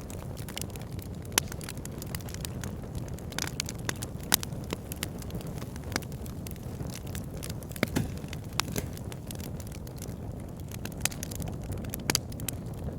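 Burning logs crackling and popping irregularly over a steady low rumble of flames, with a few louder pops scattered through.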